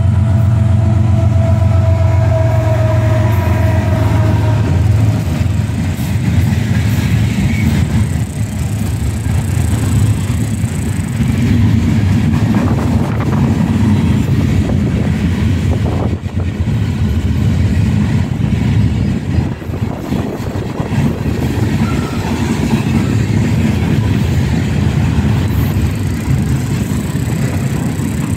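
A pair of GE ES44AC and EMD SD70ACe diesel locomotives pass, their engine drone sliding down in pitch over the first few seconds as they go by. A long string of freight gondola cars then rolls past with a steady rumble of steel wheels on rail, broken by an occasional sharp knock.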